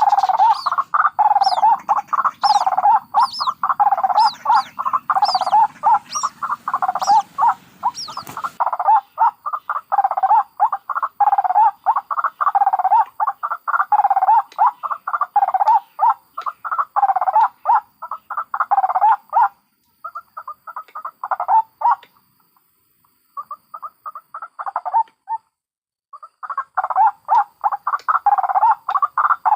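White-breasted waterhens calling in a rapid, nearly continuous series of harsh croaking notes, adult calls with thinner high-pitched calls of young birds over them during the first 8 seconds. The high calls and a low background hum cut off abruptly about 8 seconds in, and the calling breaks off briefly several times near the end.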